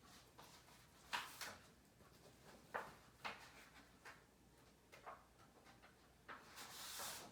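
Faint rustles and light taps of cardstock and paper being handled, with a longer rustle near the end.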